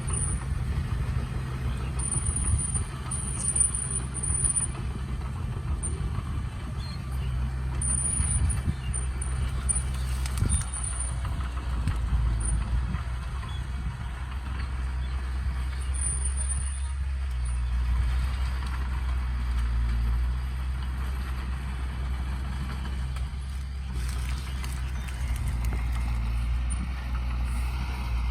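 Heavy diesel earthmoving machinery running steadily, a deep continuous engine drone with a thin high squeal that comes and goes several times.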